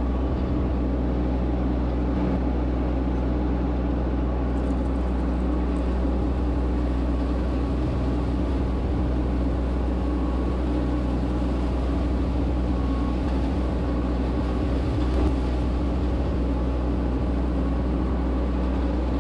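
Solis H24 compact tractor's diesel engine running at a steady speed while pulling a dethatcher.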